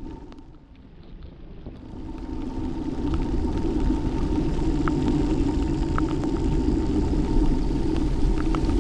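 A car driving: a steady low rumble of road and engine noise, with a few faint scattered ticks. The sound drops out suddenly at the start and builds back up over about two seconds.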